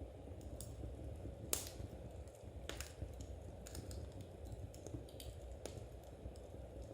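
Wood fire crackling in a fireplace: scattered, irregular sharp pops and snaps over a low steady rumble, with one louder pop about a second and a half in.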